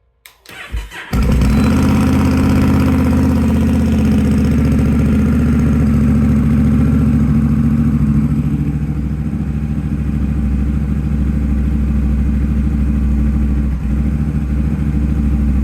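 Honda Rebel 1100's parallel-twin engine cranked on the electric starter, catching after about a second and then idling steadily through its exhaust. The idle is a little busier at first and eases to a steadier, lower note about halfway through.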